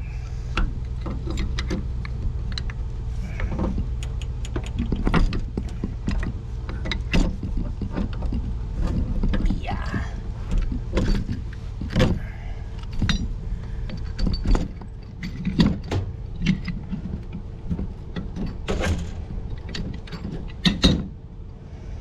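Hand tools clicking and clanking irregularly on metal fittings as a corroded galvanized nipple is worked out of a brass valve, over a steady low hum.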